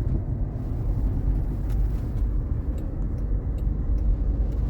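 Steady low road rumble heard inside the cabin of a moving Waymo self-driving car, with a few faint ticks over it.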